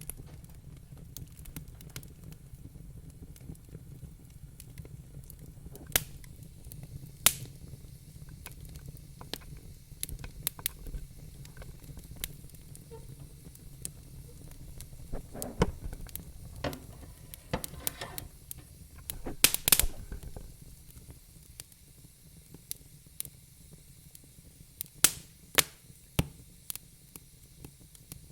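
Wood fire burning in a fireplace, crackling: a steady low rumble and hiss with irregular sharp pops and snaps, a cluster of them coming close together a little before two-thirds of the way through.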